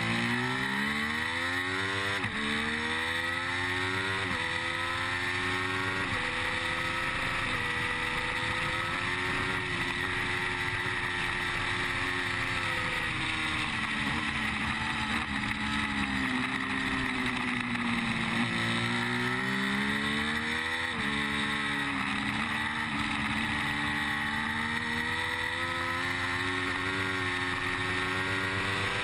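Triumph Street Triple 675 inline-three racing engine under hard acceleration, heard from the rider's onboard camera. The revs climb and drop sharply at each upshift, about every two seconds at first, then hold high. Past the middle the revs fall away for a couple of seconds, then climb again through further upshifts, over a steady rush of wind.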